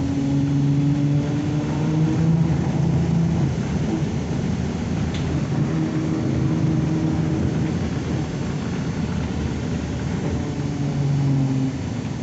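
ZiU-9 trolleybus heard from inside while running: electric motor hum with two steady tones that rise slightly and break off a few times, over a rumble of wheels and body. There is a single sharp click about five seconds in.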